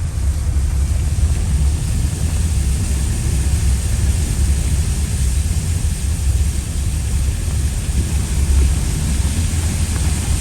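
Car driving at a steady pace: a constant low rumble of engine and road noise with an even hiss above it.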